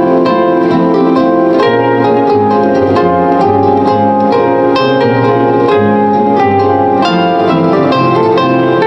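Solo live instrumental music on a plucked-string instrument: many overlapping notes, each struck sharply and left ringing, over a moving bass line of separate low notes.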